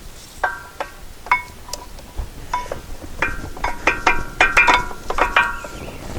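Light metal-on-metal clinks and taps with a short ring, a few at first and then many in quick succession: the steel backing plate of a brake pad knocking against the brake caliper while the outer pad is worked into place.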